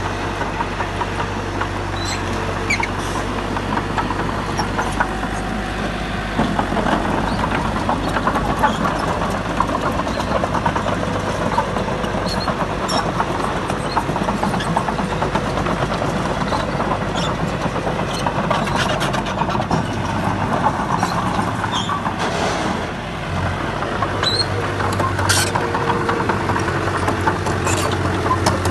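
Komatsu D31P bulldozer's diesel engine running steadily under work, with a dense clatter of small clanks and knocks from the tracks and pushed stone. The engine grows louder about six seconds in and dips briefly near the end.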